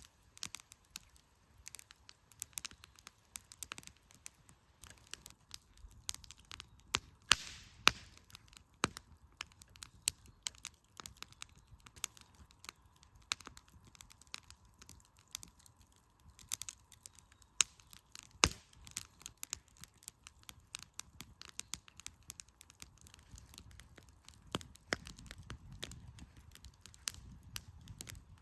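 Firewood campfire crackling, with irregular sharp pops and snaps and a short hiss about seven seconds in.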